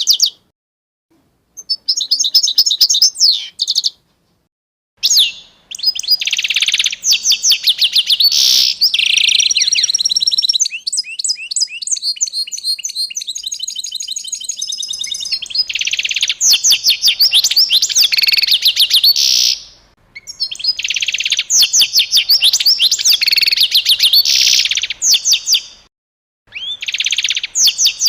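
Songbird singing in long runs of rapid, high chirping trills, in phrases of a few seconds broken by short silent gaps. Partway through, a thinner, faster trill of repeated notes takes over for a few seconds.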